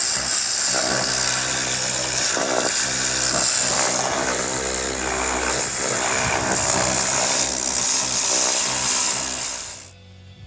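Pressure washer spraying: a steady, loud hiss of water jet with machine noise, over background music. It cuts off suddenly near the end.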